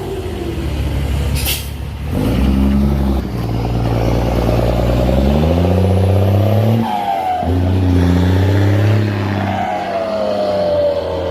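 Mercedes dump truck's diesel engine pulling away under load, its pitch climbing and dropping back at each gear change, about twice. A short hiss of air about a second and a half in.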